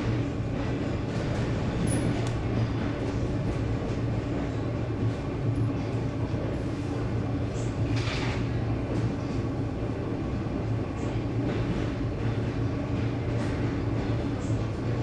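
ED9M electric multiple unit under way, heard from inside the passenger car: a steady low hum with wheels knocking over rail joints at irregular spacing. A brief hiss comes about eight seconds in.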